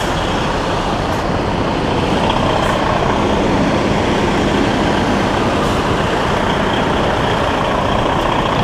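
Semi truck's diesel engine running steadily at low speed as the truck backs up under a trailer.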